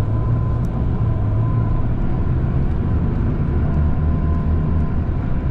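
Tour coach engine and road noise heard from inside the cabin while driving, a steady low drone.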